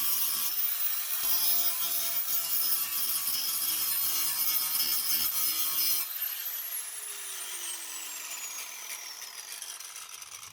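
Electric angle grinder grinding steel, taking down small welded-over plug nubs on the car's floor pan that are suspected of causing a scraping noise. It eases off briefly about a second in. About six seconds in it is switched off, and its whine falls away slowly as the disc spins down.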